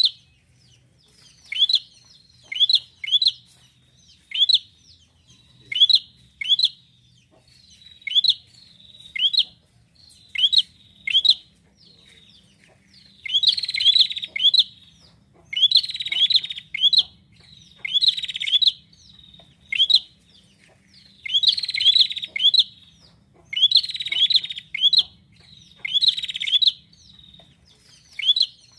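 Prinia (prenjak) calling: short, high, sharp chirps in quick pairs and triplets about once a second. In the second half come louder, buzzier bursts packed with chirps.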